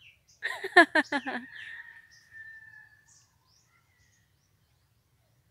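A bird calling: a quick run of four or five loud notes about half a second in, trailing into a thinner held note that fades out by about three seconds.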